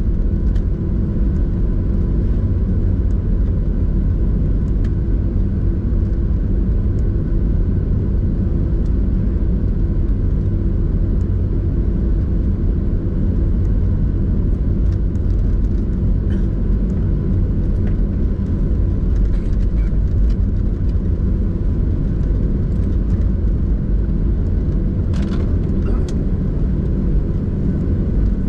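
Cabin noise inside a Boeing 737-800 taxiing after landing: a steady, loud low rumble with an even hum from the CFM56 engines at idle.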